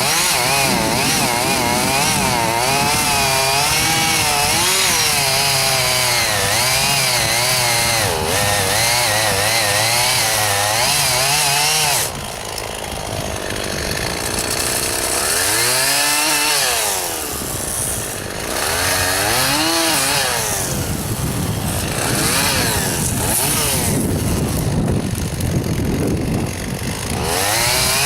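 Two-stroke chainsaw cutting juniper wood, its engine note wavering under load. About twelve seconds in it eases off, then revs up and down in several swells.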